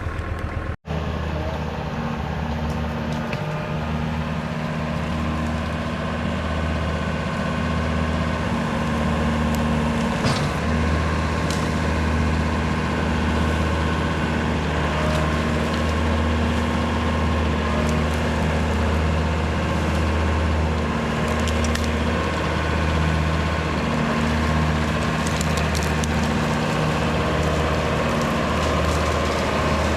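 Diesel engine of an LS MT573 tractor running steadily under load while a Woods BushBull rotary cutter shreds bamboo, with scattered cracks and snaps of stalks breaking. The sound drops out for an instant about a second in.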